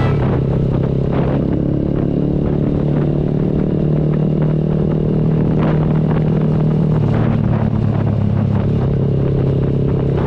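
GPX Legend Gentleman 200 motorcycle's single-cylinder engine running steadily under way, a loud, even hum. About seven seconds in its note drops lower.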